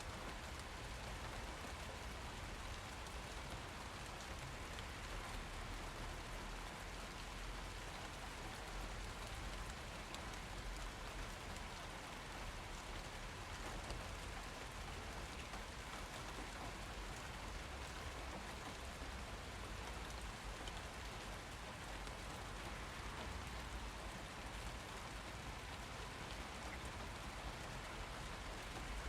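Steady rain falling and pattering on surfaces, an even hiss that holds at the same level throughout.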